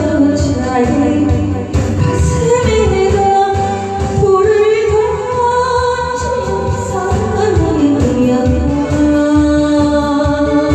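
A woman singing a Korean trot song over a band backing track with a steady beat, the melody held in long, sliding notes.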